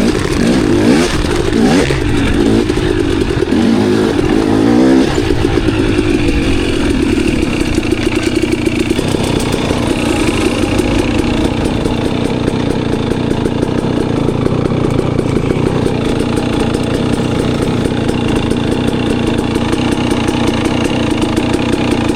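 Enduro dirt bike engine revving up and down for the first few seconds, then running at a steady, even note.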